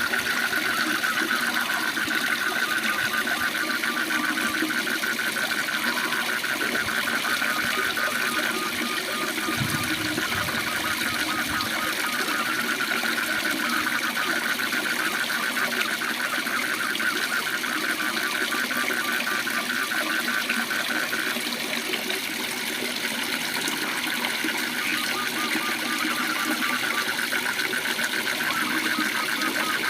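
Waterfall rushing steadily under frogs calling in rapid, evenly pulsed trills, two callers at slightly different pitches overlapping throughout.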